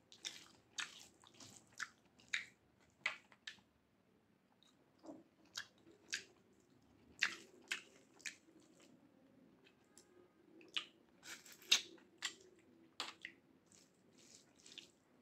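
Close-up mouth sounds of a person eating: chewing with irregular short wet smacks and clicks, the loudest about three-quarters of the way through.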